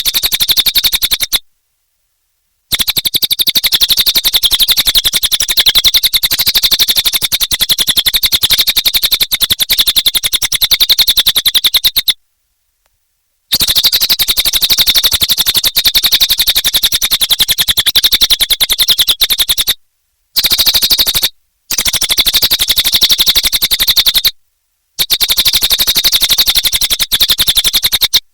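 Cililin bird singing vigorously: a loud, high-pitched rapid trill of very fast repeated notes in long runs. The runs stop abruptly for short pauses about 1.5, 12, 20, 21 and 24 seconds in.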